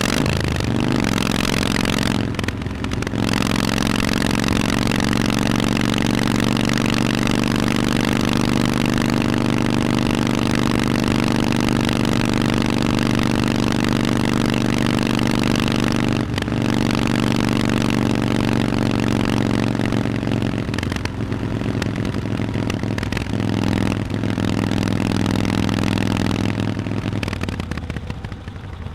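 Harley-Davidson Forty-Eight's V-twin running through Vance and Hines exhausts while riding. The engine pulls at fairly steady revs, with brief breaks in the note twice, once early and once midway, and it eases off and quietens near the end. Wind rushes over the microphone throughout.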